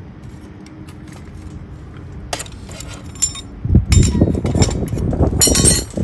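Light clinking and rattling of small hard objects. About four seconds in, louder, jumbled low rustling and knocking joins it.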